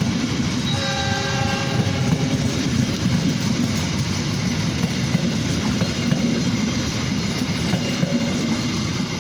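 Train running past with a steady, loud rumble, and a short horn sounding about a second in.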